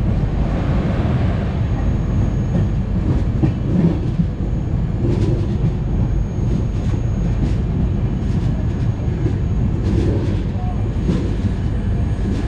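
Train running along the track, heard from inside a carriage: a steady rumble of wheels on rails with scattered clicks from the rail joints.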